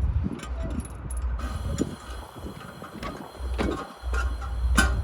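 Railway cars on the move during a yard switching move: a series of sharp knocks and clanks over a low rumble, the loudest knock near the end, with the rumble dropping out briefly about four seconds in.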